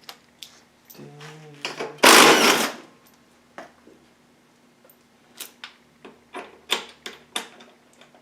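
Hand tools at work on a motorcycle's exhaust bolts: scattered sharp metallic clicks and ticks from a ratchet and sockets, with a short loud rushing scrape about two seconds in.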